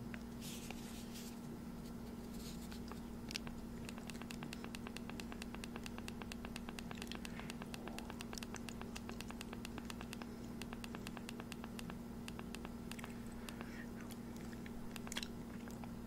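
Faint close-miked chewing mouth sounds: a long run of fast soft clicks through the middle, with a few louder ticks, over a steady low electrical hum.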